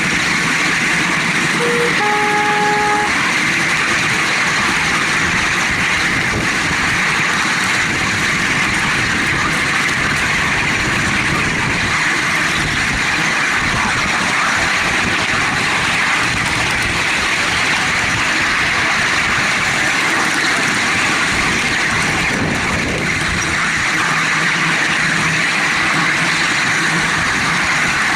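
A 7¼-inch gauge miniature train running steadily along its track, heard from on board as a constant rush and rumble. About two seconds in, the locomotive's horn gives a short toot.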